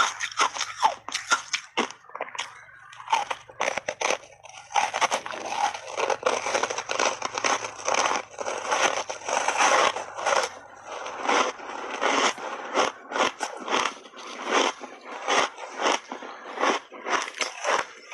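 Ice chunks coated in matcha powder being bitten and chewed: a dense run of crunching and crackling, then separate crunches about two or three a second.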